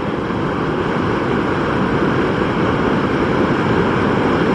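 Fast-flowing water rushing steadily, a dense, even noise with no breaks.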